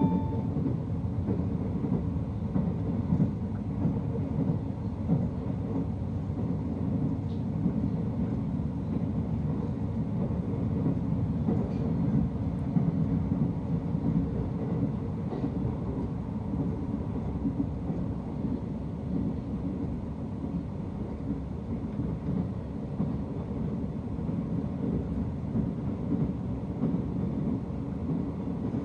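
Running noise of a JNR sleeper express train, heard from inside a passenger car: a steady low rumble.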